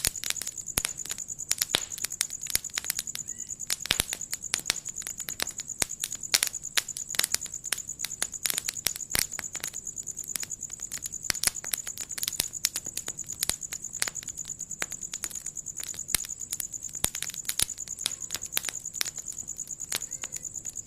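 Wood fire in a fireplace crackling, with irregular sharp pops and snaps over a steady high hiss.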